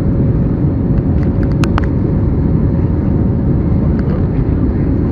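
Airliner cabin noise in flight: a steady low roar with a constant hum, and a few small clicks about a second and a half in.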